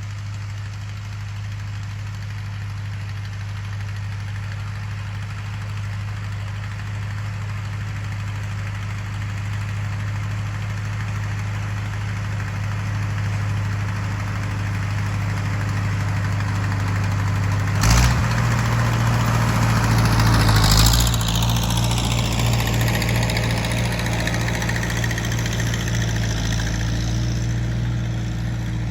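Tractor engine running steadily at a low idle. About two-thirds of the way through there is a sharp knock, and soon after the engine note rises a little, with a high whine that falls slowly in pitch over several seconds.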